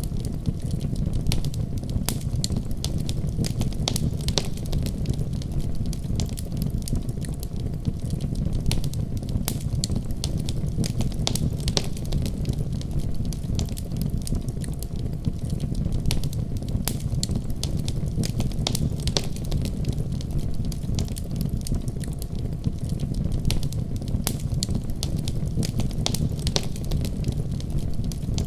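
Wood fire burning steadily: a low rumble of flames with constant irregular crackles and pops.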